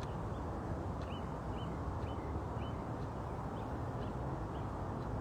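Small birds giving a scattering of short, high chirps over a steady low background rumble.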